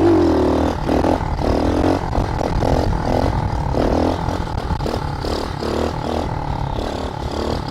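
SSR110 pit bike's small four-stroke single-cylinder engine revving in repeated surges as the throttle is opened and closed on wheelie attempts.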